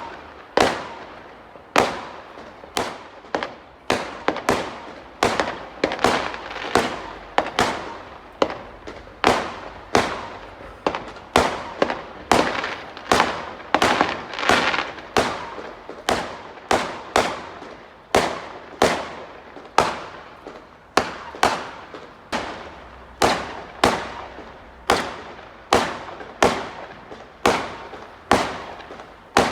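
Fireworks display: a continuous run of sharp shell bursts, one or two bangs a second, each trailing off, with crackling filling the gaps between them.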